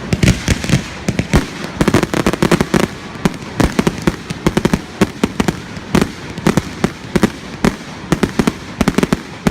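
Fireworks going off in a rapid barrage of sharp bangs, several a second, packed closely together throughout.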